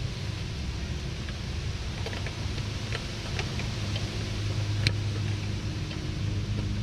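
A few light clicks from needle-nose pliers pinching a plastic wiring clip, over a steady low hum.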